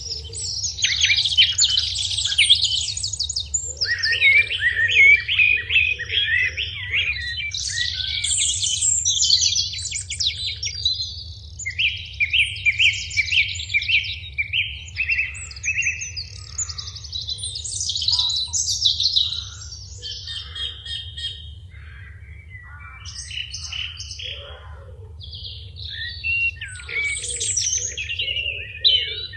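Several birds singing: bright chirps and rapid trilled phrases one after another, thinning out for a few seconds about two thirds of the way through, over a steady low hum.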